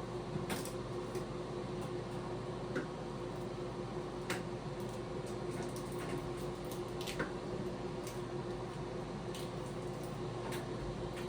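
90 CFM bathroom ceiling exhaust fan running with a steady hum and a constant low tone, with a few light clicks scattered over it.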